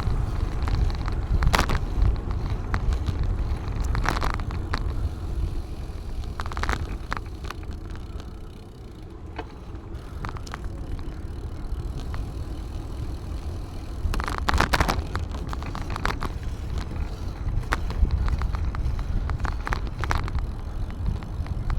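Wind rumble on the microphone and tyre noise from a bicycle being ridden, with scattered clicks and rattles. It eases for a couple of seconds about eight seconds in, then picks up again.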